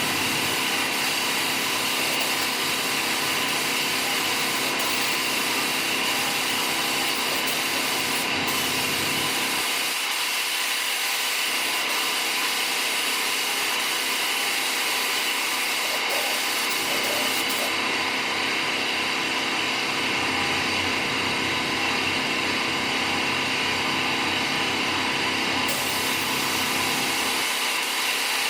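A motor-driven machine running with a steady whirring hiss, unbroken throughout.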